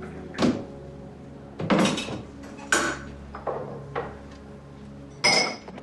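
Cups and dishes clinking and knocking: about six sharp separate strokes, the last one near the end with a brief ring. Quiet background music underneath.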